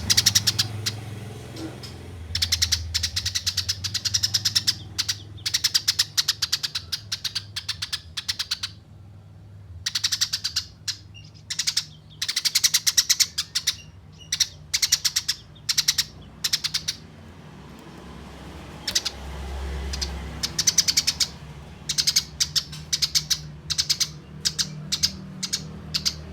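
Eurasian tree sparrows giving their fighting chatter: long, dense trains of rapid, sharp chirps in runs of one to several seconds, broken by short pauses.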